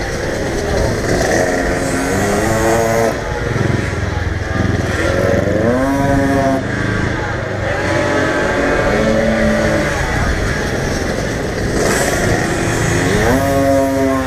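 Motorcycle engines revving up again and again, about four times. Each rev climbs in pitch and then holds, over a steady background din.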